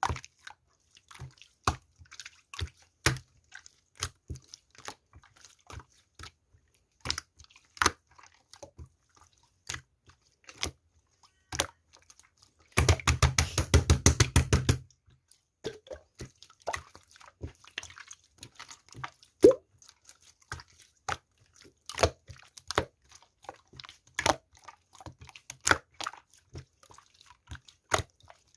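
Scattered small clicks and taps, irregularly spaced, with a dense flurry of rapid clicks lasting about two seconds, roughly halfway through.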